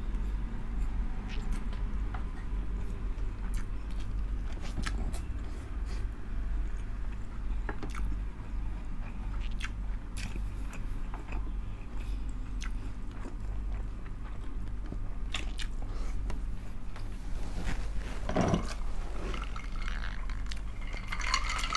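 Close-miked chewing and mouth sounds of people eating tinumis, a soft pork blood stew, with rice by hand: scattered wet clicks and smacks over a steady low hum. Near the end there is a brief louder sound as a glass of soda is taken up to drink.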